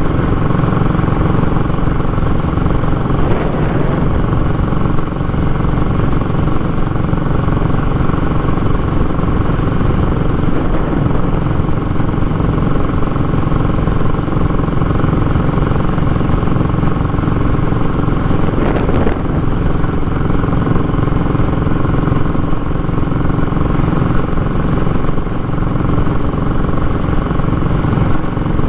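Royal Enfield Classic 500's single-cylinder engine running steadily through a short, open exhaust, giving a loud, raw exhaust note.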